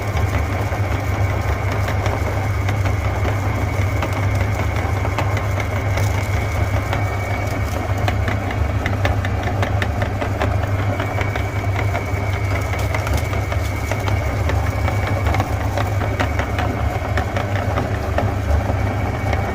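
Electric meat grinder running steadily: a constant low motor hum with a faint whine, and scattered small crackles from the auger working the food.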